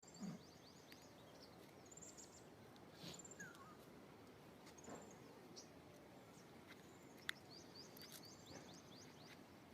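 Small birds chirping outdoors, many quick high calls over a faint background hiss, with one sharp click about seven seconds in.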